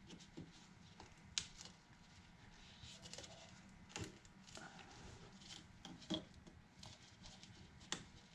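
Faint handling noises: scattered light clicks and rustling, with a few sharper ticks, as gloved hands work at opening the resin container.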